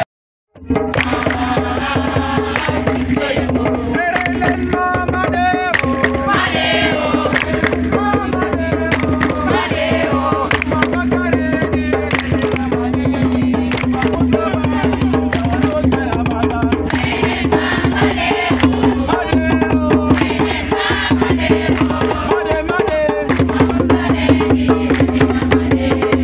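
Live hand drumming, fast and dense, with voices singing over it. The sound drops out completely for about half a second at the start.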